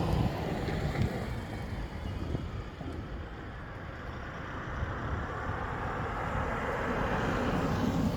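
Motor vehicles passing on a road: one fades away over the first few seconds and another comes closer toward the end.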